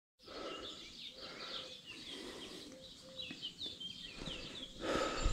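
Small birds chirping in quick, short calls over a faint outdoor background, with a brief rush of noise near the end.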